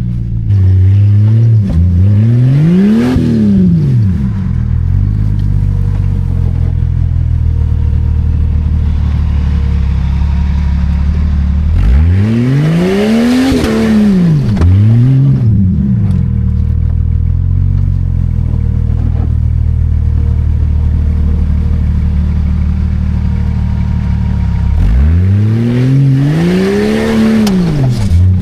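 Old Jeep Cherokee's engine running under load off-road, revved hard in three big surges that climb and fall in pitch, with a few shorter blips between stretches of steadier running.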